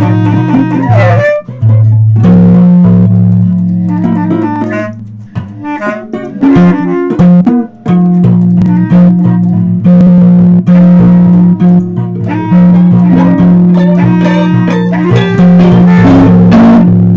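Music: a guitar being plucked and strummed over an electric bass holding long low notes.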